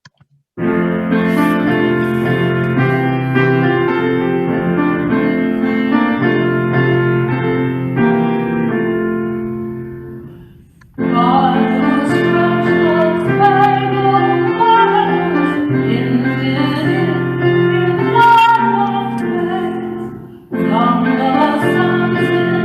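A hymn on piano: a piano introduction that fades out about ten seconds in, then piano with a singer's voice, which breaks off briefly and starts again near the end.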